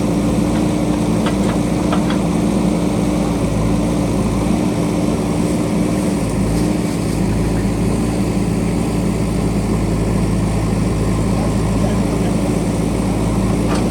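JCB backhoe loader's diesel engine running steadily, a continuous low drone with a constant hum.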